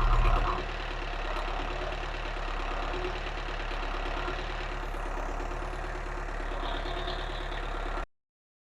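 Barrus Shire 43 HP marine diesel running at a steady idle, freshly serviced with new oil and filters. The sound cuts off suddenly near the end.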